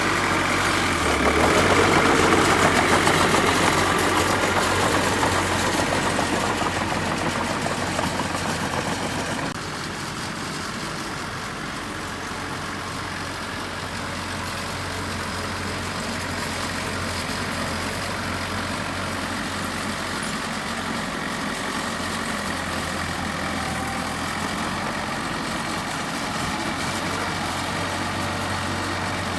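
Engine of heavy construction machinery running steadily, louder for the first nine seconds or so, then dropping suddenly to a steady, lower level.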